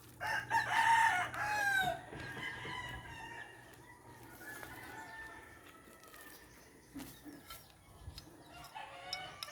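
Roosters crowing: a loud crow in the first two seconds, fainter crowing through the middle, and another loud crow starting at the very end.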